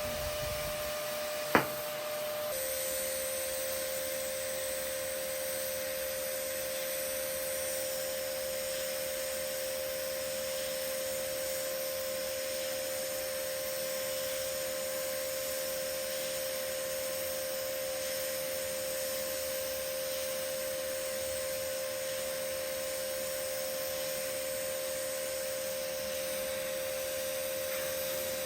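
TIG (GTAW) welding arc running steadily on carbon steel, a constant hum with a steady whine and hiss. A single sharp click comes about a second and a half in, after which the tone shifts slightly and a high hiss rises as the arc settles.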